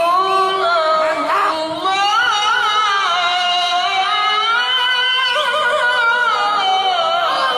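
A Quran reciter's voice in one long, ornamented melodic phrase, holding high notes and bending them with quick vocal runs.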